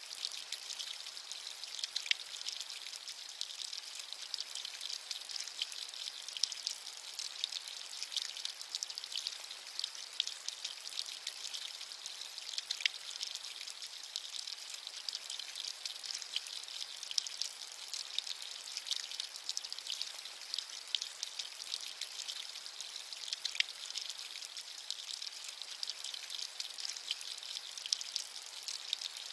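Steady rain falling, with many fine drop ticks over an even high hiss.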